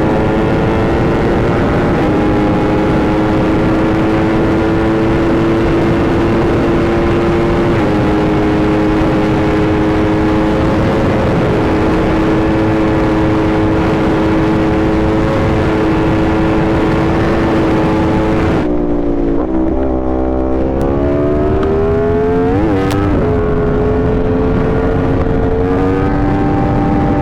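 Superbike inline-four engine running at steady high revs under heavy wind rush at speed, with an upshift about eight seconds in. Near the twenty-second mark the wind drops as the bike slows, the revs fall, climb again with a quick blip, and settle back into a steady cruise.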